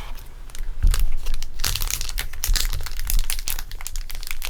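Plastic packaging crinkling as it is handled, a dense run of irregular crackles that picks up about a second in, with a few dull bumps from handling.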